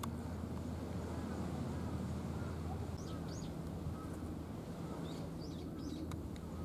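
Birds chirping in short high calls, a pair about three seconds in and a few more around five to six seconds, over a steady low hum, with a few faint clicks near the end.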